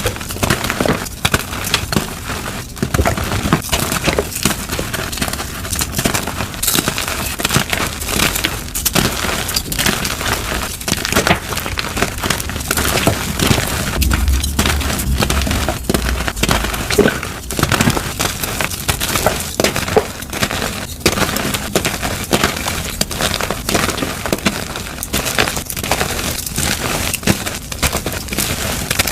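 Dyed gym chalk blocks being crushed, a dense run of crisp crunching and crumbling with many sharp cracks, going on without a break.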